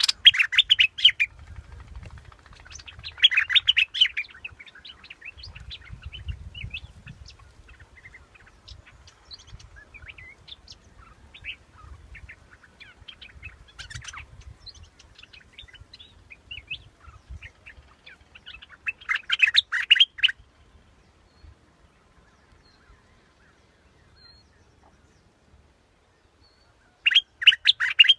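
Bulbul singing: four loud, short bursts of bubbly song with fainter chirps scattered between them, a typical decoy call for luring bulbuls.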